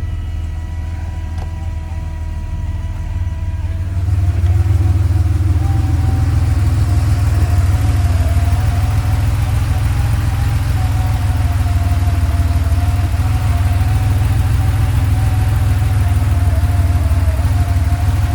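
1986 Porsche 911 Carrera's air-cooled flat-six idling steadily, a few minutes after a cold start. About four seconds in it gets louder and a steady whine joins it.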